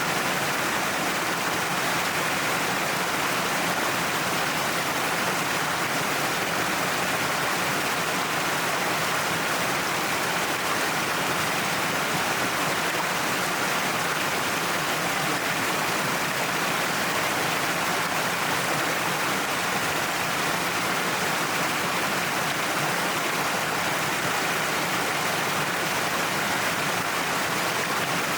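A waterfall pouring down a cliff face: a steady, even rush of falling water.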